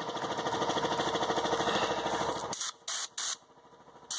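An air compressor running with a fast, even pulse cuts off about two and a half seconds in. Then the Raptor liner spray gun gives two short hissing bursts of air as its trigger is pulled, with a third just at the end.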